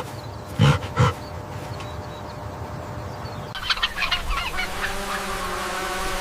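Two short animal calls about a second in. Then, from about halfway, geese honking, with many overlapping calls that grow louder toward the end.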